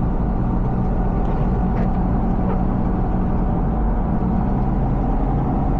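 Steady engine and road noise heard inside a car's cabin while driving: a low rumble with a steady hum.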